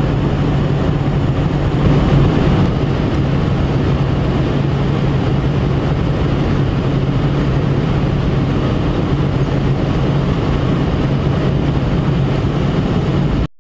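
Steady road and engine noise inside a moving car, with a constant low hum underneath. It cuts off suddenly near the end.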